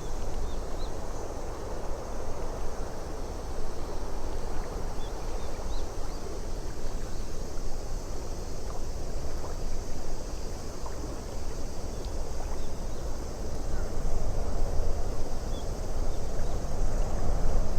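Steady wind over lake water lapping, swelling a little louder near the end, with a few faint high chirps now and then.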